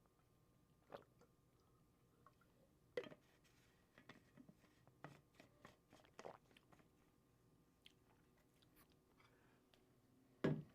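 Near silence with scattered faint clicks and small knocks, and one louder knock about ten and a half seconds in.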